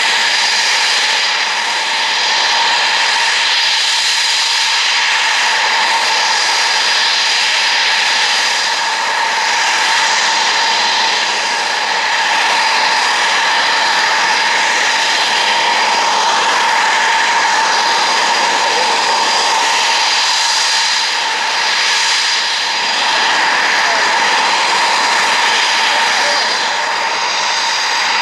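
Eurofighter Typhoon's twin EJ200 turbofan engines running at a steady setting: a loud, continuous whine with several held high tones over a rushing noise, swelling gently now and then.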